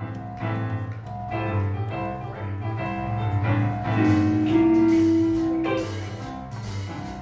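A band playing live, with piano to the fore over a steady bass line and a long held note about four seconds in.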